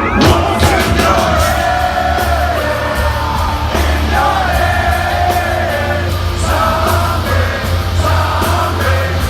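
Heavy metal band playing live and loud, a singer's held notes over heavy bass and crashing cymbals.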